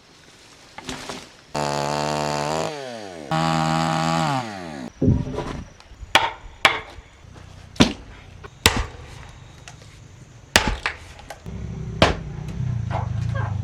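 A chainsaw revved twice, each rev held briefly and then falling away, followed by a series of sharp axe chops into wood, about seven strikes a second or so apart. A low hum comes in near the end.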